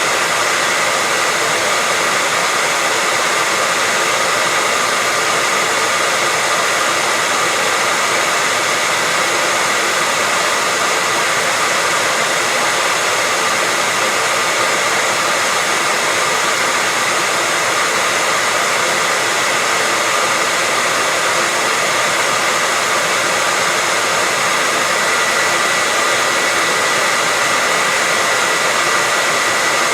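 Hair dryer running steadily on one setting: a continuous whooshing blow of air with a faint steady motor whine, used as white noise to soothe a baby to sleep.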